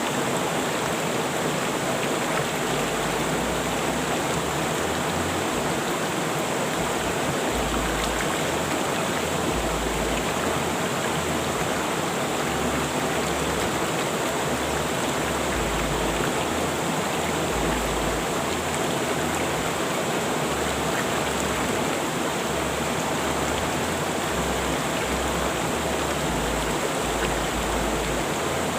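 Rushing river water: a steady, even wash of flowing water that holds unchanged throughout.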